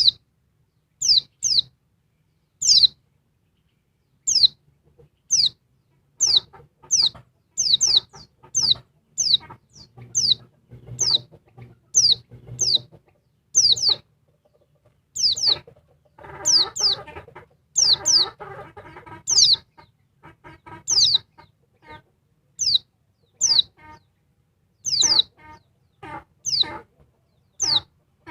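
Female pleci (white-eye) calling over and over: sharp, high notes that each fall quickly in pitch, often in pairs, about one or two a second, the calls of a female in breeding condition calling to males. Fainter, lower chattering sounds run underneath, busiest in the middle.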